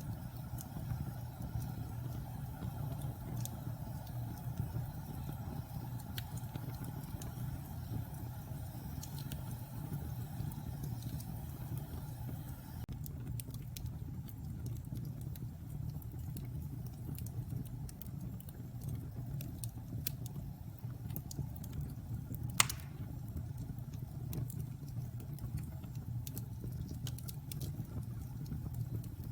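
Wood fire burning in a fireplace: a steady low rumble of flames with scattered small crackles, and one sharp pop of burning wood about three quarters of the way through.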